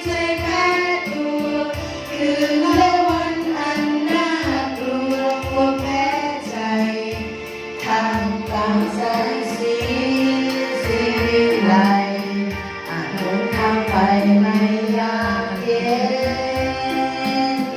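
A Thai song sung over a band or backing track with a steady beat, the voices gliding through a sung melody.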